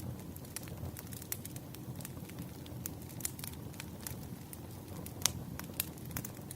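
Wood fire crackling: irregular sharp pops and snaps over a low steady rumble, with a couple of louder pops near the end.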